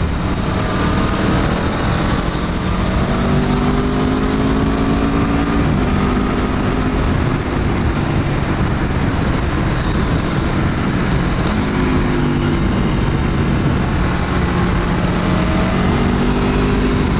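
Aprilia Tuono V4's stock-exhaust V4 engine pulling under acceleration, its pitch climbing steadily, dropping about six seconds in and climbing again from near the end, under heavy wind rush from riding.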